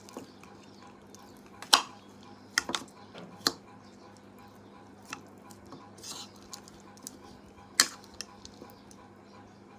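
Utensils clinking and knocking against a dish as food is mixed, in a handful of sharp, separate clicks.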